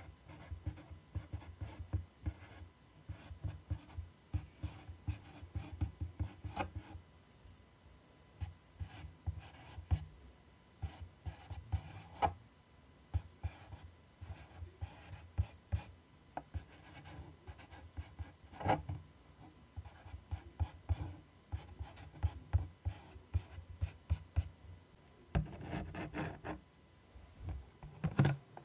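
ASMR scratching and tracing on a surface: a busy, uneven run of short scratches and light taps, with a few sharper clicks and a denser, louder patch of scratching near the end.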